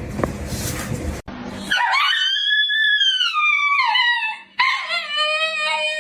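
Dog howling: two long howls, the first high and falling in pitch, the second lower and steadier, following a short stretch of noise that cuts off about a second in.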